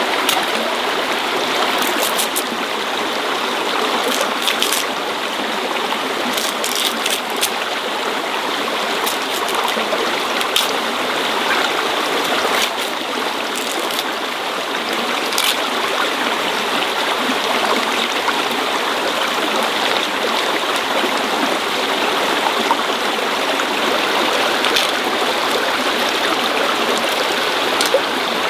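Steady running water, like a stream, with scattered faint clicks over it.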